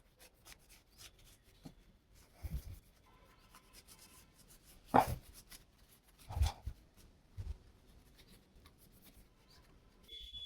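Cloth wiping a bicycle disc brake rotor clean of sprayed alcohol: a few short rubbing and handling sounds, the loudest about halfway through, between quiet stretches.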